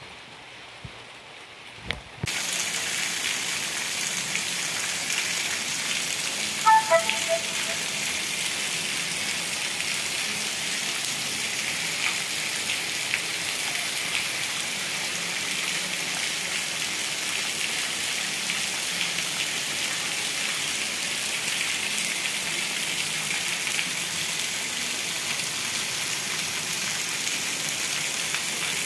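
Steady heavy rain falling on a cobbled street and roofs, starting abruptly about two seconds in. About seven seconds in, a few short notes step downward in pitch over the rain.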